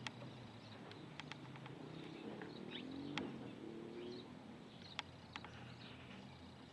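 Faint short bird chirps and scattered sharp ticks, with a few low gliding calls in the middle.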